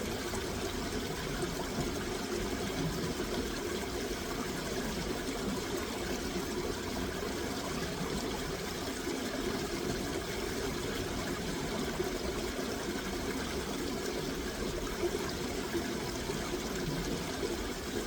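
Running water flowing steadily, like a stream or small rapids, in an even, unbroken rush.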